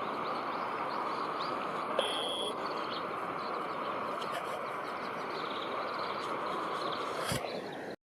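Steady outdoor background rumble with short, high bird chirps scattered over it; the sound cuts off suddenly near the end.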